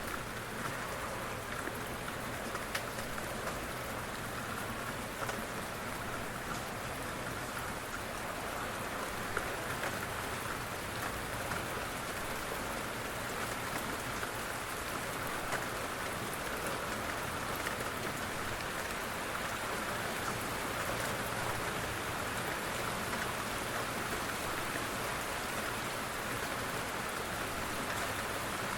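Steady rainfall pattering on a surface, with many small individual drop ticks.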